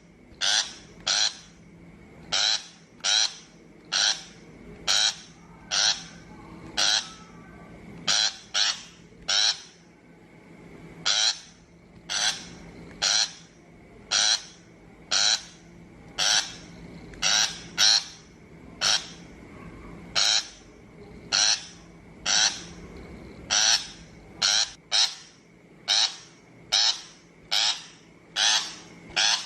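Shrike giving short, harsh calls over and over, about one to two a second and often in quick pairs, as used in a trapping lure recording.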